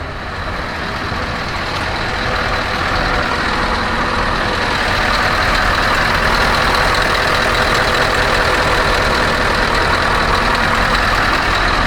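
Scania R560's V8 diesel engine idling steadily, getting louder over the first few seconds.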